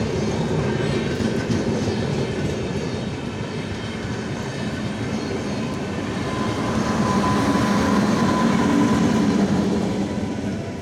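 A train running along the rails: a steady rumble and rattle of wheels on track. A thin steady whine joins about halfway through, and the sound swells louder before easing near the end.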